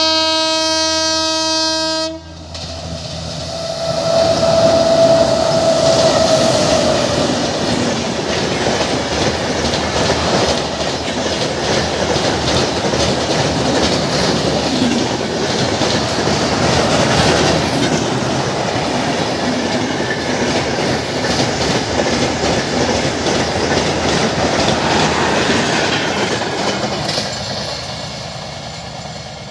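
Train horn sounding for about two seconds and cutting off abruptly. Then a high-speed passenger train runs across an open steel rail bridge: loud wheel rumble with the rhythmic clatter of wheels over the rails and bridge, fading near the end.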